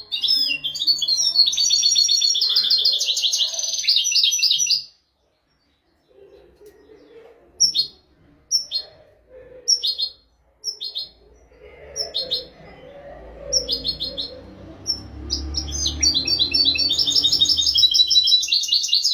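European goldfinch singing: long runs of fast, twittering trills near the start and again toward the end, with short separate chirps between.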